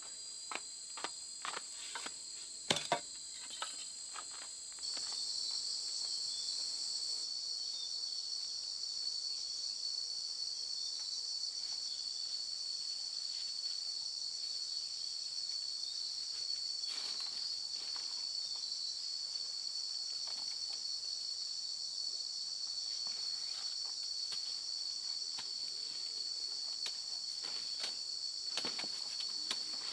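Steady, high-pitched chorus of insects trilling without pause, growing louder about five seconds in. A few sharp clicks and knocks sound in the first few seconds, the loudest about three seconds in, with a few more later.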